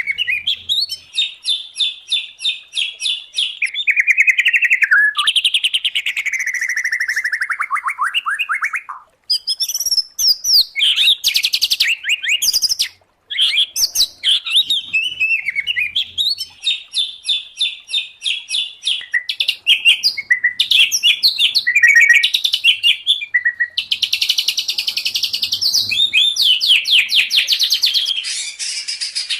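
Songbirds singing, from a combined recording of white-rumped shama, oriental magpie-robin and greater green leafbird song: fast runs of repeated chirps alternating with long downward-sweeping whistles and varied phrases, broken by two brief gaps about nine and thirteen seconds in.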